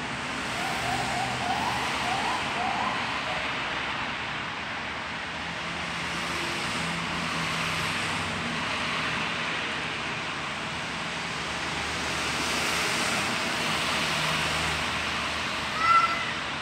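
Steady rushing background noise, with a few short rising chirps in the first few seconds and a brief, sharper tone near the end.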